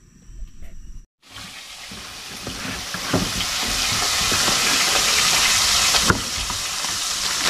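Battered grouper pieces deep-frying in a pan of hot oil: a steady sizzle that starts after a short silence about a second in and builds over the next few seconds, with a few sharp clicks.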